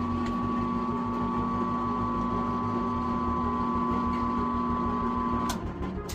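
A motor running at a steady speed with an even whine, stopping with a click about five and a half seconds in.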